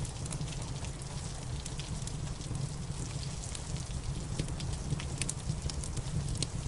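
Wood fire crackling with many small sharp pops, over a steady wash of rain.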